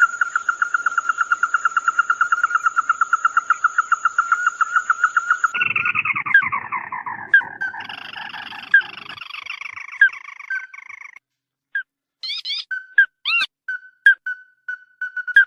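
Calls of the bird known in Vietnam as chim mắt đỏ ('red-eyed bird'): a fast, even run of clear notes, about ten a second, for the first five seconds or so, then a falling, chattering trill with several voices overlapping. After a brief break, scattered single notes return near the end.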